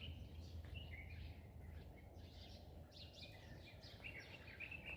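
Small birds chirping faintly, short quick calls that come more often in the second half, over a steady low rumble.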